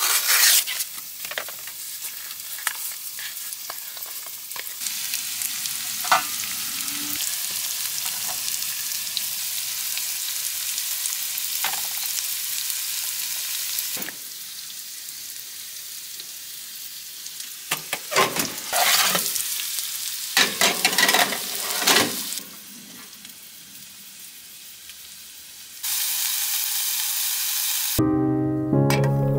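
Food sizzling and frying in a pan, a steady hiss with clinks and knocks of a utensil now and then. Paper tears once at the very start, and soft music comes in near the end.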